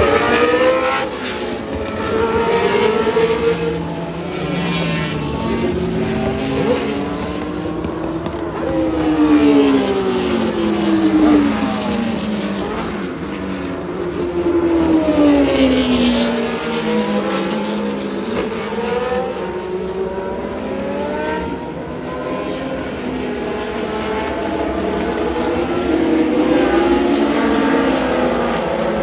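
Several 1970s–80s Formula One race cars passing at racing speed. Their engine notes rise and fall in pitch as they accelerate, shift and brake, one after another.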